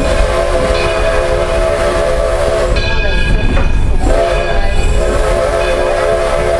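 Steam locomotive whistle blowing two long blasts, each a held chord of several tones, with a short break about three seconds in, over the low rumble of the train running.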